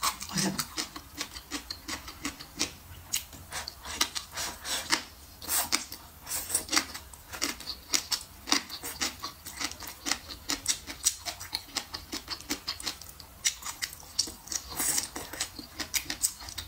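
Close-miked eating sounds: chewing and lip-smacking on braised pork belly and stir-fried bean sprouts, a rapid, uneven run of wet clicks, with slurps as sprouts are sucked in.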